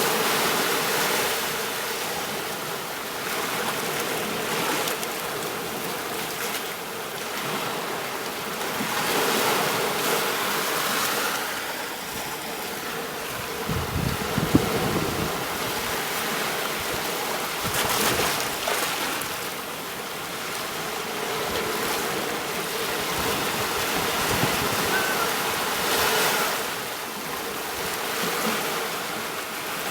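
Ocean waves breaking and washing up a beach, the surf noise swelling and falling back every few seconds. A short, louder low rumble comes about halfway through.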